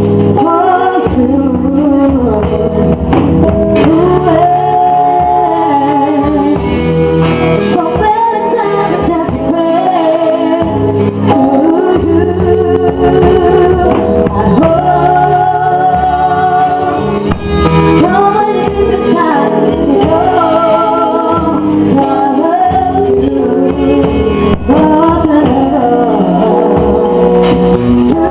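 A song: a woman singing a melody over instrumental backing, with held notes that bend up and down.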